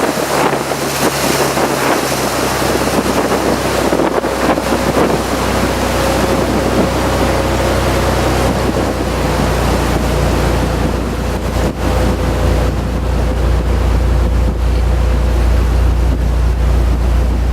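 Motorboat engine running steadily under way, with wind buffeting the microphone and the rush of water. The engine's low hum grows stronger about four seconds in.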